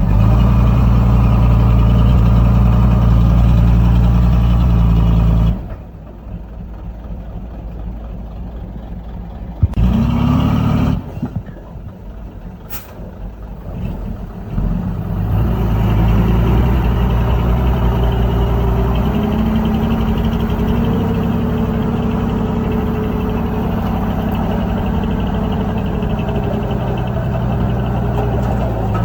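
Heavy diesel engines of dump trucks and a crawler dozer running steadily. They are loud for the first five seconds, much quieter for about ten seconds with a brief sharp sound in the middle, then loud and steady again.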